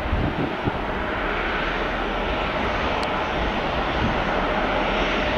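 Jet engines of a departing Airbus A321-200 at takeoff power: a steady rushing noise that grows slightly louder.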